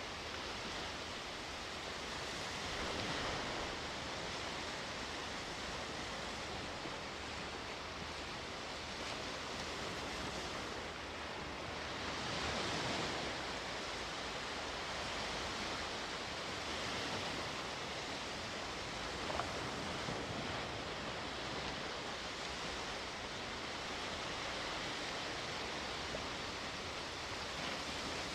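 Sea waves breaking and washing on the shore: a steady rush of surf that swells and eases several times, most strongly a few seconds in and again a little before halfway. A short tap sounds about two-thirds of the way through.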